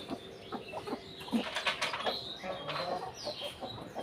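A flock of domestic pigeons calling, with short high chirps, brief wing flapping and scattered sharp clicks around the middle.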